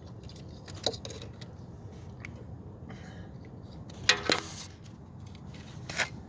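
A few short metallic clicks and clinks of hand tools and parts being handled, the loudest a quick double clink about four seconds in, over a low steady rumble.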